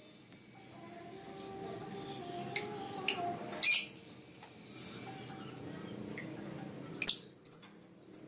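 Lovebird giving short, sharp, high chirps, about seven of them scattered across a few seconds, the loudest about seven seconds in.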